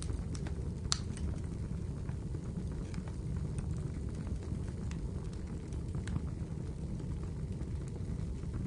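Wood fire crackling in a fireplace over a steady low rumble, with scattered sharp pops; a loud one comes about a second in and another at about six seconds.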